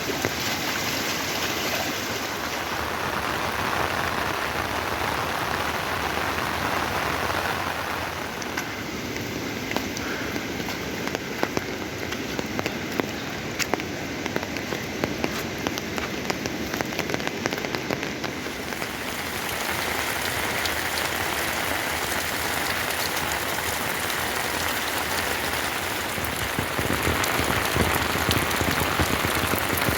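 Heavy rain falling steadily, with many sharp clicks of individual drops striking, thickest through the middle.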